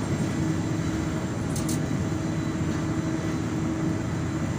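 Inside a moving city bus: a steady engine drone and road rumble, with a constant hum, and a brief light rattle about a second and a half in.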